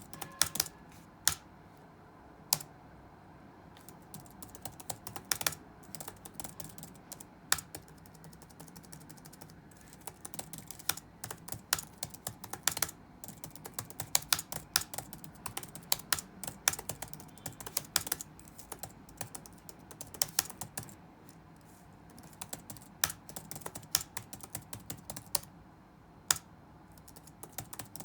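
Typing on a computer keyboard: a few scattered keystrokes at first, then quick runs of key clicks in bursts with short pauses, over a faint steady room background.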